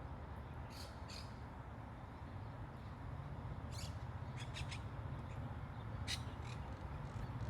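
Birds giving short calls, some in quick pairs, over a steady low background rumble.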